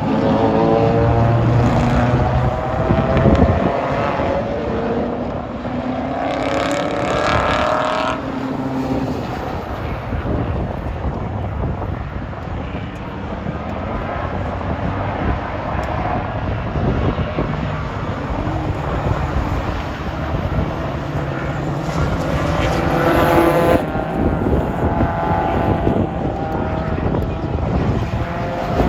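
Race cars running on a circuit, with three separate passes about 1, 7 and 23 seconds in, where an engine note swells and glides in pitch, over a steady wash of track noise.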